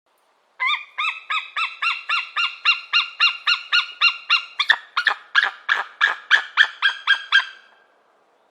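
Peregrine falcon giving its harsh, repeated 'kak-kak-kak' cacking alarm call: a rapid run of about twenty calls, roughly three a second, for some seven seconds, the later calls harsher and a little louder.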